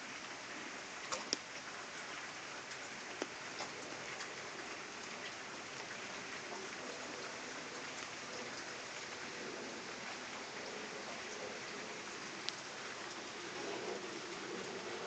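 Steady rain falling, with a few brief sharp taps about a second in and again later.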